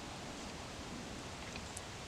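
Quiet forest ambience: a steady, even hiss with a faint tick or two.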